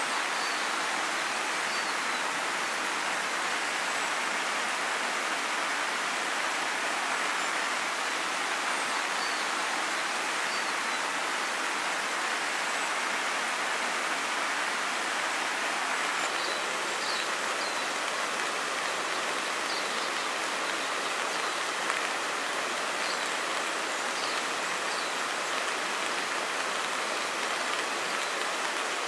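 Steady, even rush of a river flowing close by, with a few faint high chirps now and then.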